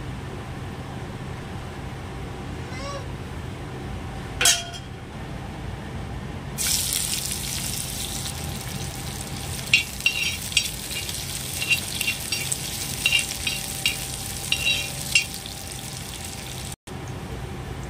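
Food starts to sizzle in hot oil about a third of the way in, after a single knock, and keeps frying with a steady hiss. A metal utensil clinks against the pan several times during the frying.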